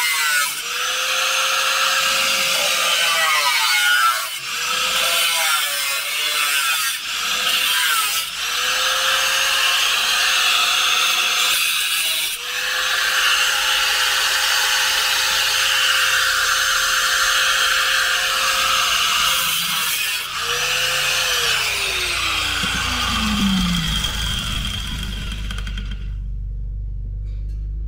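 Electric angle grinder cutting into the rusted steel of a car's floor, its pitch dipping each time it bites. About 20 seconds in it is switched off and winds down in a falling whine.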